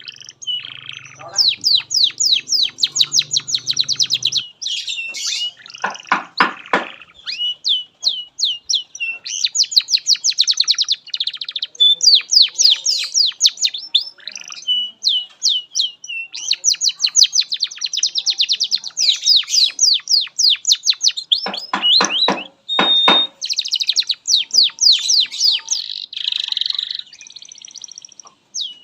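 Domestic canary singing a long, unbroken song of fast trills made of rapidly repeated high sweeping notes. Twice the song drops into a short, lower, buzzy rolling passage before the high trills resume.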